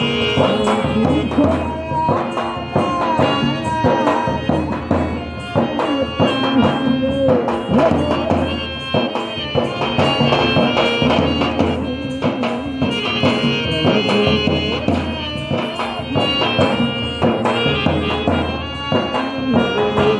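Live Rajasthani folk music, an instrumental passage: percussion beating a steady rhythm under sustained melody and drone tones, without singing.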